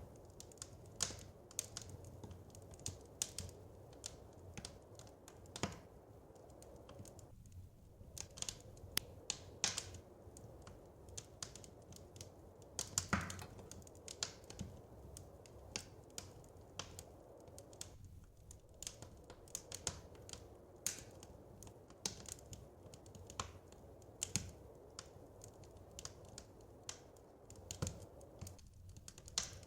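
Wood fire crackling in a fireplace: irregular sharp pops and snaps, one louder pop about halfway through, over a low steady rush.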